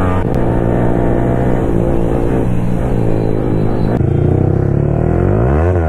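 Sport motorcycle engine running hard at speed; near the end its pitch drops, then climbs again as it pulls back up through the revs.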